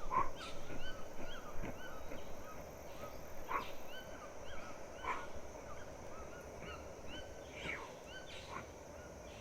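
Birds calling: louder calls come every second or two and fade toward the end, over a busy background of small repeated chirps and a steady faint high whine.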